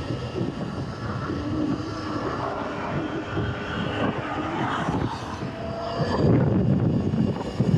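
Surron electric dirt bike under way, its electric motor giving a steady whine that drifts in pitch, with wind noise on the microphone growing louder about six seconds in.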